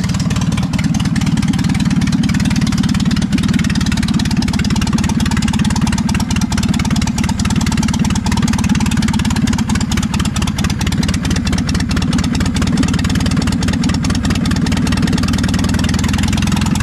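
Old carbureted engine idling steadily while it warms up after a cold start. Its air cleaner system has just been reinstalled, and it probably needs a little adjustment.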